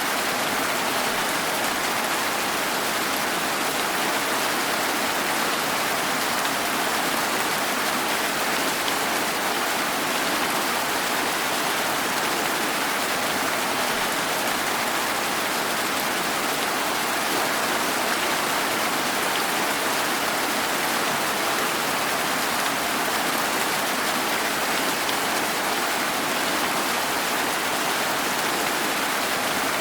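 Steady rain falling, an even hiss of many drops without distinct knocks, thunder or other events.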